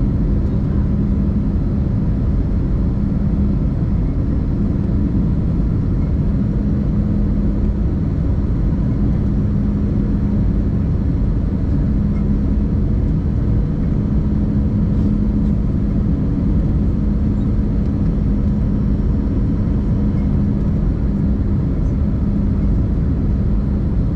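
Steady drone of an Airbus A320-200 heard inside the passenger cabin, with a constant low hum over an even rush of noise.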